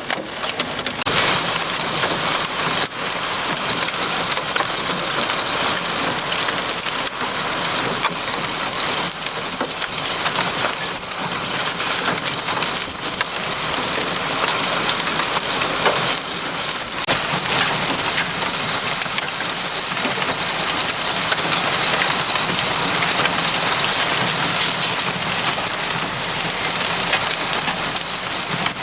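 Heavy rain mixed with small hail pelting a vehicle: a dense, steady patter of countless fine ticks that swells and eases slightly.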